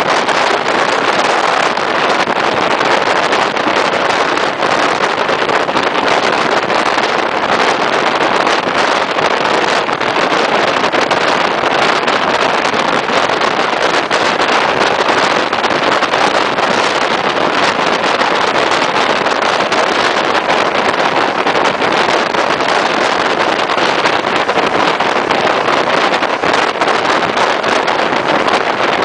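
Loud, steady rush of wind over the microphone held out of a moving passenger train's window, mixed with the train's running noise.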